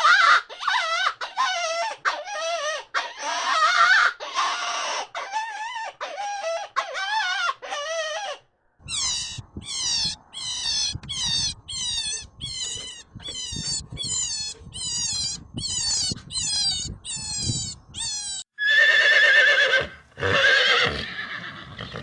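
A dog yelping and whining in quick, wavering cries for about eight seconds. Then comes a series of about fourteen high, falling squeaks, a little over one a second. Near the end a horse whinnies.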